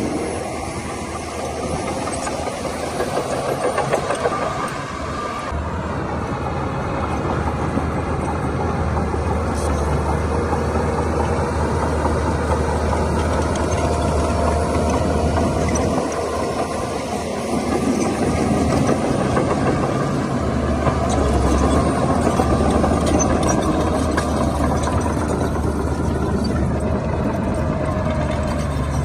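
Heavy earthmoving machinery's diesel engine running continuously under varying load. The deep engine note strengthens about five seconds in, dips briefly around the middle, and strengthens again about two-thirds of the way through.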